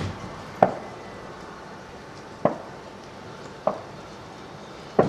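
A firework going off: four sharp pops at uneven gaps of one to two seconds.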